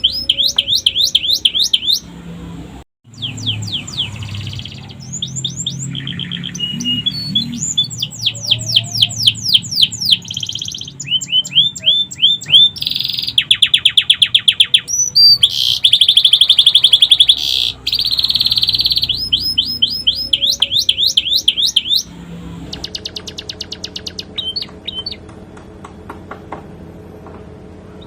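Domestic canary singing a long song of fast trills and runs of repeated sweeping whistles, phrase after phrase: a canary taught sikatan londo phrases. The song turns quieter for the last few seconds.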